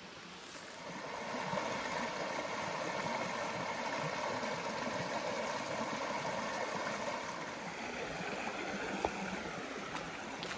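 Spring water running and splashing over rocks, a steady rushing that grows louder about a second in, with a few sharp clicks near the end.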